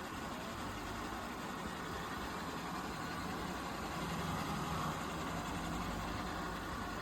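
Eufy RoboVac G30 robot vacuum running: a steady whir of its suction motor and brushes, slightly louder about four seconds in.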